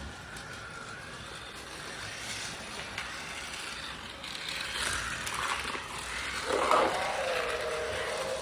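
Toy race track set running, a steady mechanical rattle of plastic parts, with a brief wavering pitched sound near the end.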